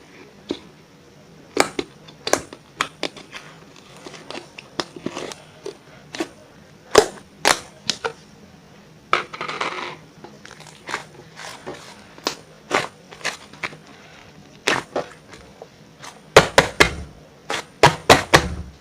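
Sticky grape cream slime being played with, giving irregular sharp pops and clicks, with a short crackly stretch about nine seconds in and a quick run of pops near the end.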